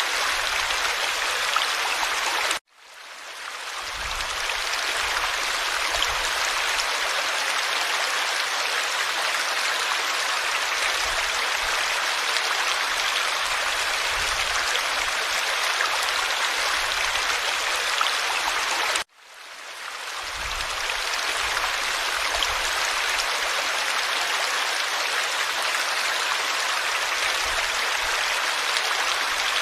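Forest stream flowing, a steady rush of water. The sound cuts out suddenly twice, about two and a half seconds in and again about nineteen seconds in, fading back up over a second or two each time.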